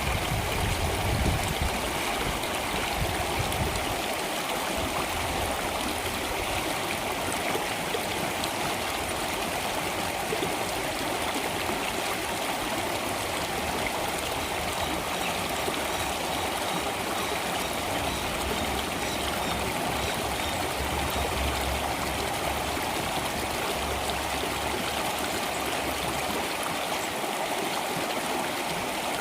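Stream water flowing steadily, a continuous rushing and trickling. A deeper rumble in the first few seconds dies away.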